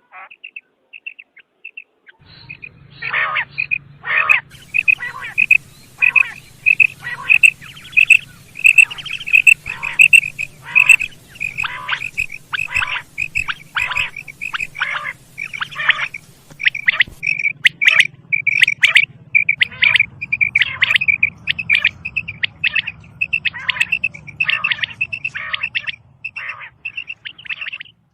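Female quail calling: a long series of short, high, repeated notes, roughly two a second, starting about two seconds in.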